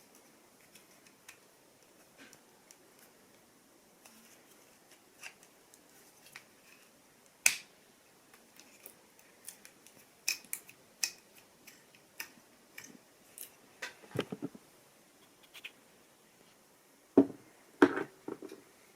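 Scattered sharp clicks and small knocks of washing-machine recirculation pump parts being handled and fitted, at irregular intervals. There is one loud knock about seven and a half seconds in, a run of clicks after it, and two louder knocks near the end.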